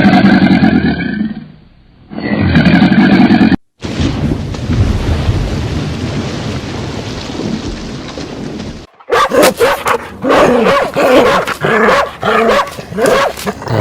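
Farm-animal calls in short clips cut together. First come two long pitched calls, then a stretch of noisy grunting, then a busy run of short, rapid calls near the end.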